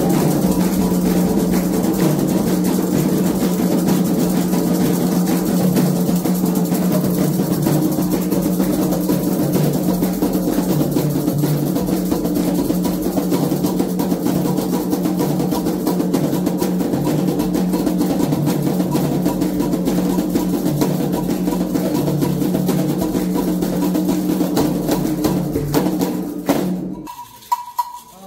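Candomblé ritual drumming on atabaque hand drums, fast and continuous. It breaks off abruptly about a second and a half before the end.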